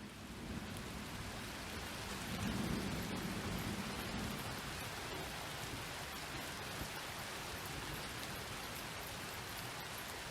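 Steady rain falling, an even hiss of drops on surfaces, with a low rumble of distant thunder swelling and fading a couple of seconds in.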